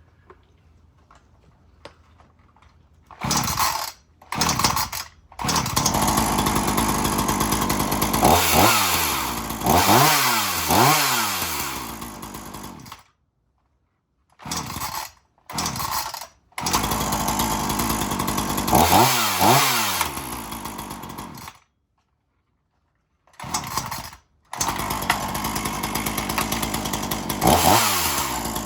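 Gasoline chainsaw running and being revved: the engine speed rises and falls in quick throttle blips, several in a row. The sound cuts out abruptly a few times.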